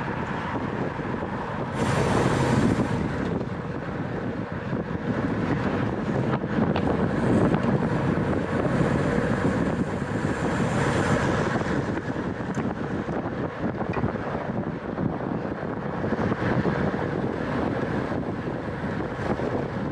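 Wind rushing over the microphone of a camera on a moving racing bicycle, a steady rush with a stronger gust about two seconds in.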